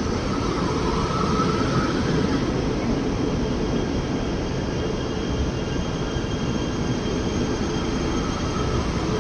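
KTMB ETS electric train pulling into the station, its coaches rolling past along the platform with a steady rumble of wheels on rail and a faint high whine.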